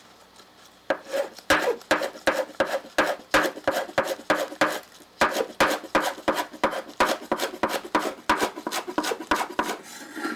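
Kitchen knife chopping rapidly on a cutting board, about four strokes a second, finely slicing green onion, with a short pause about halfway.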